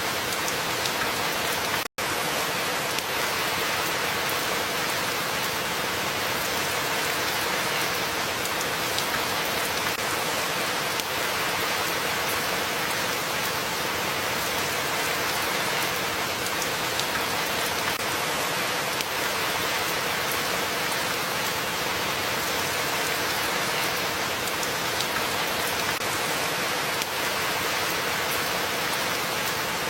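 Steady rain falling, an even continuous hiss, with a split-second dropout to silence about two seconds in.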